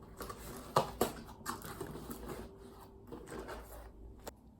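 Packaged groceries being handled and set down: light rustling of packaging with a few sharp taps and knocks.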